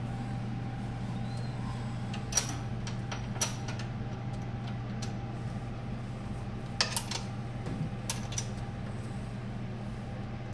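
A steady low machine hum, like a fan running, with a handful of light sharp clicks and taps from parts and tools being handled. The clicks come singly, a few seconds apart, with a quick double click about seven seconds in.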